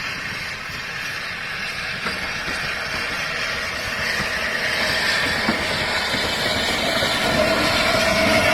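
Heritage train approaching, its running noise growing steadily louder, with a steady whine coming in near the end.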